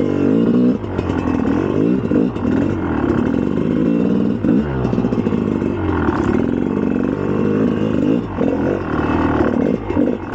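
2004 GasGas EC300's two-stroke single-cylinder engine being ridden, revving up and down with the throttle, its pitch rising and falling every second or two.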